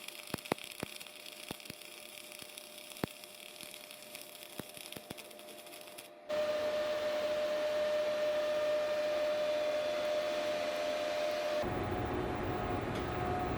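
Semi-automatic MAG welding arc: faint sparse crackling, then after an abrupt change about six seconds in a louder steady sizzling hiss with a steady hum.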